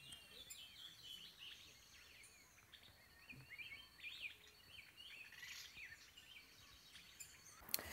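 Faint birdsong in a forest: several birds giving short chirps and whistles, on and off.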